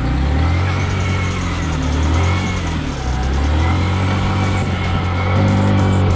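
Single-cylinder motorcycle engine revving, its pitch rising and falling in several swells.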